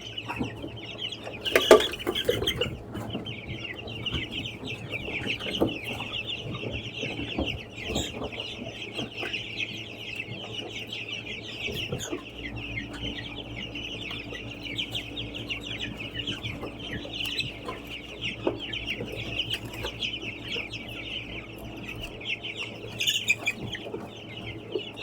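A flock of young chickens chirping continuously, a dense high peeping from many birds at once. A sudden louder clatter comes about two seconds in.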